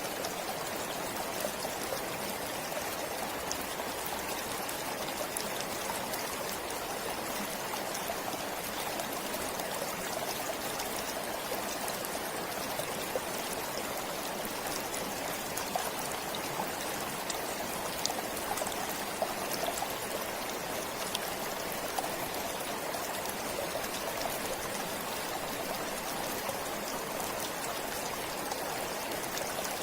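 A forest stream flowing steadily: an even rush of running water with small sharp splashes and trickles scattered through it.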